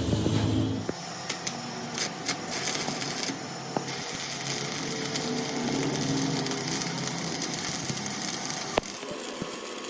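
A machine running steadily in a workshop, with a few sharp clicks about two, four and nine seconds in.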